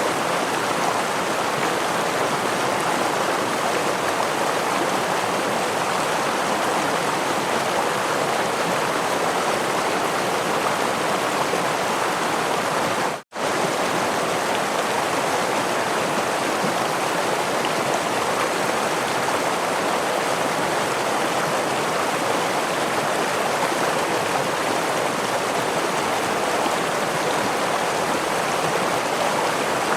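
Steady rushing and splashing of a forest stream and waterfall. It cuts out for a split second a little before halfway, then carries on unchanged.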